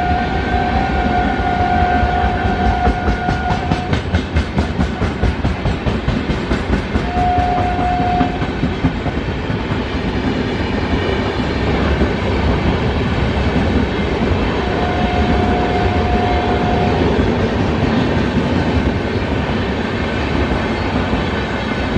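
Indian Railways train passing at speed, its wheels clacking rapidly over rail joints under a continuous rumble. A train horn sounds a long steady blast at the start, then shorter blasts about seven seconds in and about fifteen seconds in.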